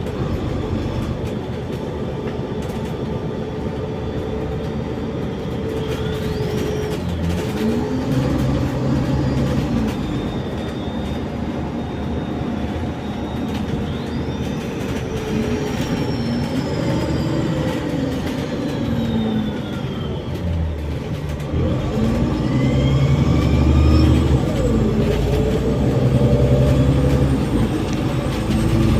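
Bus engine and drivetrain running on the move, their pitch rising and falling repeatedly as the bus accelerates and slows. Thin high whines glide up and down above them.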